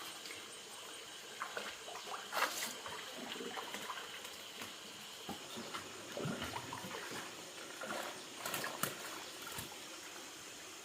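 Water trickling and sloshing, with scattered small splashes; the strongest come about two seconds in and again near the end.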